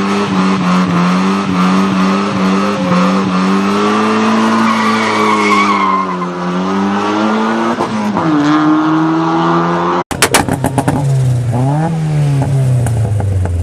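Mazda Miata four-cylinder engine held at high revs with tires squealing, as in a burnout. About ten seconds in it cuts to an engine revving up and down with sharp crackling pops from the exhaust.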